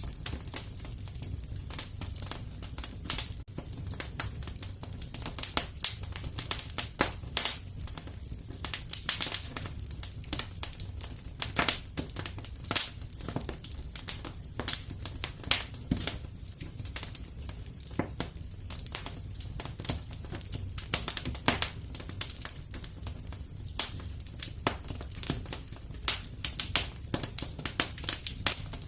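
Wood fire crackling steadily in a fireplace: frequent irregular sharp pops and snaps over a low steady rumble of the flames.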